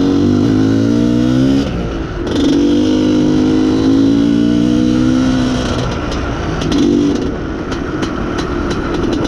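IZh Planeta Sport's single-cylinder two-stroke engine being revved with the throttle. The revs climb over the first second and a half, sag briefly around two seconds, then hold up before easing back near the end. The engine chokes when the throttle is opened, which the owner puts down to a lean mixture or a wiring fault.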